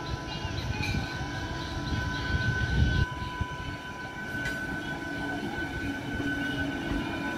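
An Eastern Railway electric multiple-unit local train passing close by, its wheels rumbling over the track, with a steady high whine running through. The rumble swells to its loudest about three seconds in, then drops off abruptly.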